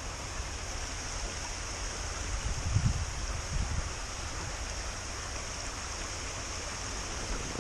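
Small stream running, a steady rush of water, with a brief low rumble about three seconds in.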